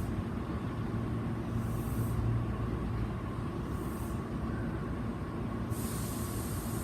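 Tokyo Metro 7000-series electric train: a steady low rumble with a faint steady tone, broken by three short high hisses, then a continuous hiss from near the end.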